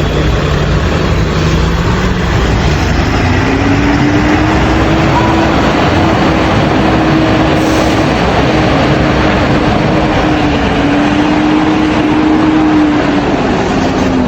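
Bus engine running loudly as the bus is driven, with a drone that rises in pitch about three seconds in and holds steady until near the end.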